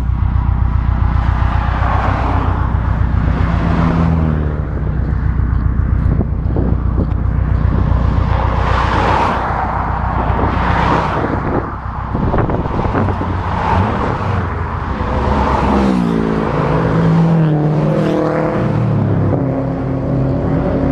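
Car engines running and passing along the road, with one engine revving up and dropping back several times near the end as it shifts through the gears.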